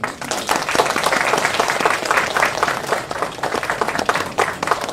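Audience applauding: many people clapping, beginning suddenly and going on steadily.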